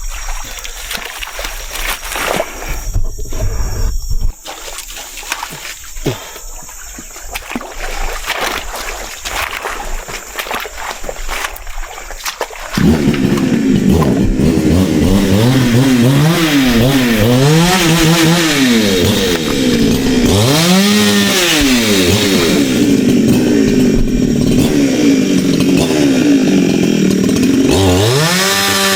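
Chainsaw engine comes in suddenly about halfway through, loud, and is revved up and down again and again. Before that there is only quieter irregular noise.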